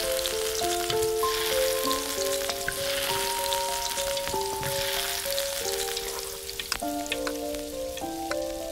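Rava gulab jamun dough balls frying in hot ghee in a miniature iron kadai: a fizzing sizzle that swells several times in the first half as each ball is dropped in, then settles, with light clicks of a small spoon stirring near the end. Soft instrumental music plays throughout.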